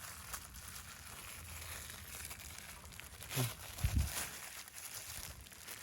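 Crinkling, crackling rustle of dry vegetation being moved, with a short low voice sound about three and a half seconds in.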